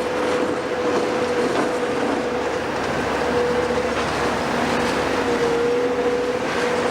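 Heavy demolition machinery running: a steady whine held at one pitch over continuous engine noise, with a few faint knocks.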